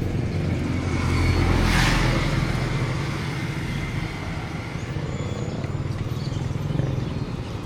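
A motor vehicle engine running steadily, with a vehicle passing close by about two seconds in.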